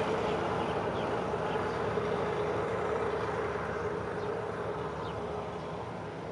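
Diesel-hauled passenger train pulling away along the track, its running noise fading steadily as it recedes, with a steady hum that sags slightly in pitch.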